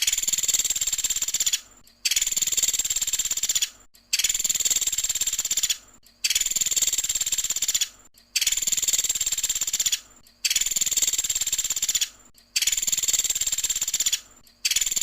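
Pelatuk sampit woodpecker giving its fast rattling 'tembakan' call over and over. Each high rattle lasts about a second and a half, with a short pause between calls, seven times in a row.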